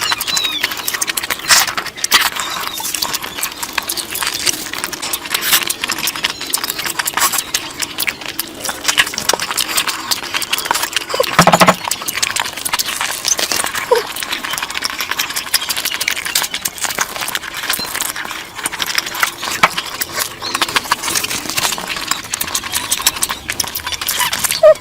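Close-miked chewing and lip-smacking of someone eating curry, a continuous run of wet clicks and smacks.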